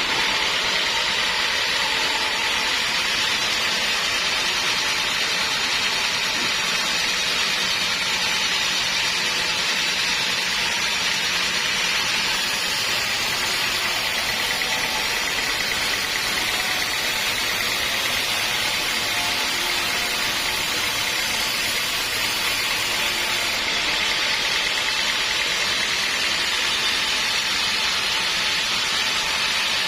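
Sawmill machinery running with a steady, even noise strongest in the upper-middle range, unchanging throughout.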